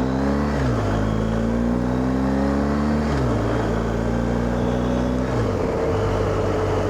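BMW R1250GS boxer-twin engine accelerating through the gears, heard through a helmet mic: its pitch climbs and drops sharply at three upshifts, then runs steady in the higher gear.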